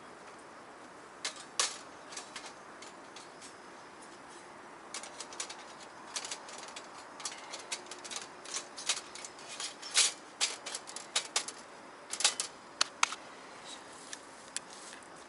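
Light, irregular metallic clicks and clinks as the thin steel panels of a folding wood stove are handled and slotted together, most frequent in the middle stretch.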